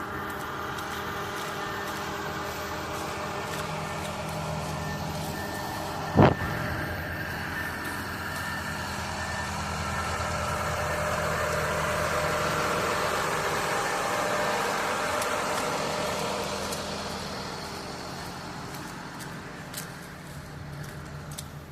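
Motor vehicle engine running steadily, swelling in level for several seconds past the middle. There is one sharp, loud knock about six seconds in.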